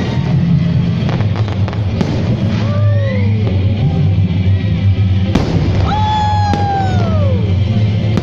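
Fireworks display over loud music with a steady bass: sharp bangs of bursting shells, and two whistling fireworks whose pitch arcs and then falls away.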